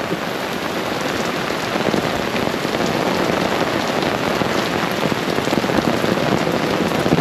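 Heavy rain pouring down on a paved patio and on the fabric of a beach umbrella overhead: a steady, dense hiss of countless drops.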